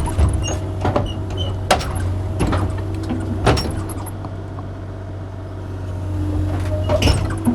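Kubota KX040 mini excavator's diesel engine running steadily, with a series of sharp metallic clanks and knocks, several in the first few seconds and more near the end.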